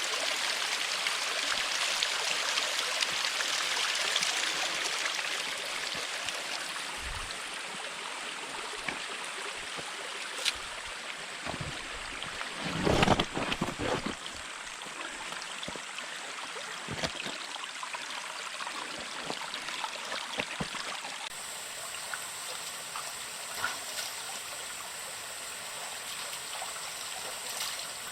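Running water of a stream, a steady rushing that is strongest in the first few seconds. A brief muffled thumping about halfway through is louder than the water.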